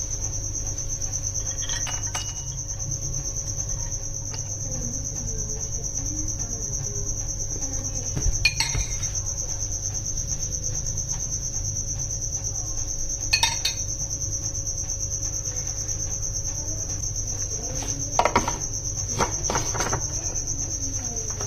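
Steady high-pitched cricket chirring, with a few sharp clinks of kitchen utensils and dishes. The clinks fall about 2 s, 8 s and 13 s in, then several more close together near the end.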